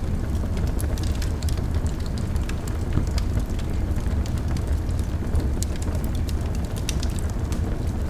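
Wood fire burning in a fireplace: a steady low rumble of the flames, with frequent small crackles and pops scattered irregularly throughout.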